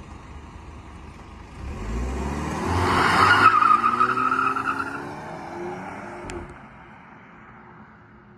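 A 2018 BMW 530i's B48 turbocharged four-cylinder engine revving up as the car accelerates away. The engine note rises to its loudest about three seconds in, then fades as the car drives off.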